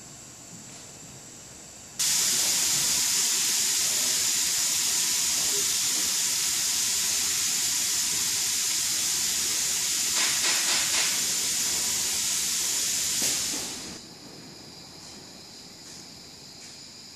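Automatic ultrasonic cleaning machine letting out a loud, steady hiss that starts abruptly about two seconds in and dies away about twelve seconds later.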